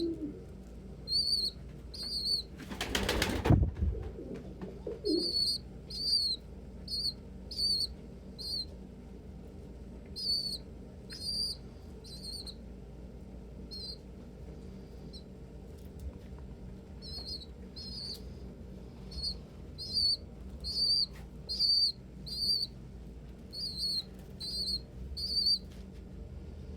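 Pigeons in a loft: a brief burst of wing flapping about three seconds in, a short coo, and a steady run of high chirping peeps repeating about once a second.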